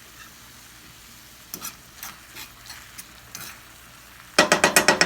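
Chicken frying in oil in a pan with a faint sizzle, while a cooking utensil knocks against the pan a few times. Near the end comes a quick run of about seven sharp metallic clatters, with a brief ring after them.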